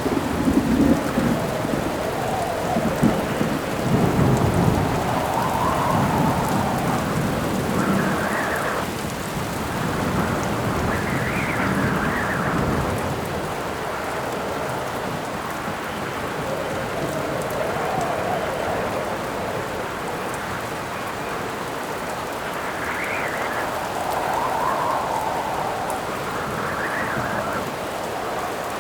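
Steady heavy rain with wind howling in gusts that rise and fall in pitch. Thunder rumbles through the first several seconds, then dies away.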